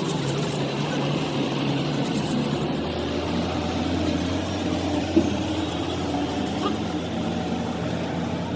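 A heavy truck engine idling steadily, with a low, even hum. There is one short knock about five seconds in.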